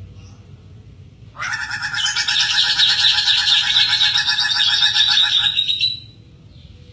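Hooded butcherbird giving one rapid, rattling call that starts about a second and a half in and lasts about four and a half seconds.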